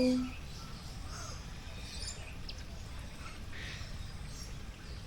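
Birds calling. A short, loud, low-pitched call comes right at the start, followed by faint, scattered high chirps over a steady low rumble.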